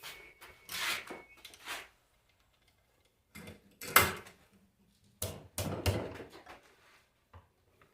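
Metal alternator parts and tools handled on a workbench: three short spells of clinks and scraping, with a sharp knock about four seconds in.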